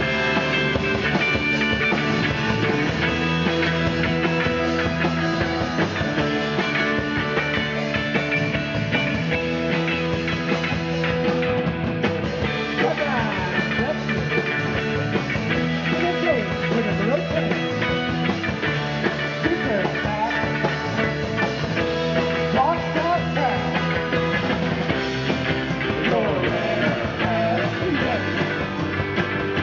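Rock band playing live: an instrumental passage of a garage/psychedelic rock song without singing, with a few sliding, bending notes.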